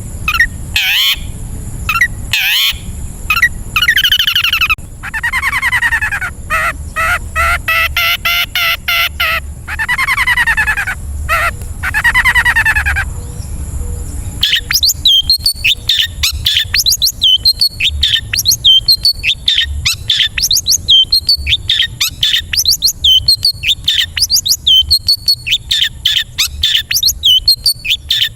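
Long-tailed shrike (cendet) singing a varied, mimicry-filled song. It gives long harsh calls with several overtones through the first half, then from about halfway a fast run of short, sharp chattering notes.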